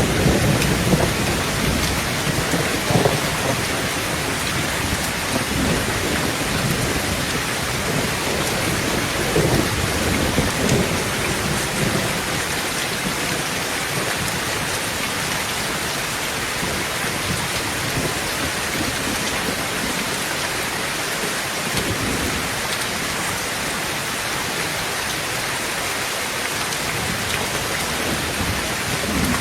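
Heavy rain falling steadily on a tin roof, with thunder rumbling low in the first few seconds and again around ten seconds in, then building again at the very end.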